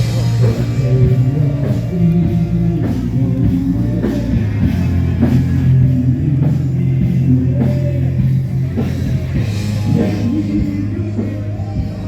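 A live rock band playing, with drums, bass and a singer's voice.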